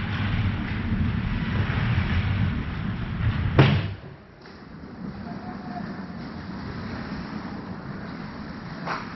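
Ice hockey game noise in a rink: a steady low rumble, one sharp crack about three and a half seconds in, then a quieter steady hiss.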